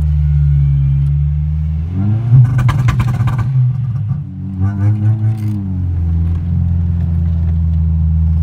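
Honda Civic 1.6 VTi's four-cylinder VTEC engine heard from inside the cabin: a steady drone, then the engine note rises and falls twice, loudest about two and a half seconds in, before settling back to the steady drone.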